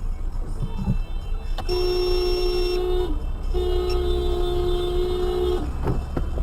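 A car horn blown in two long blasts, the second longer than the first, over the steady rumble of a car driving on the road.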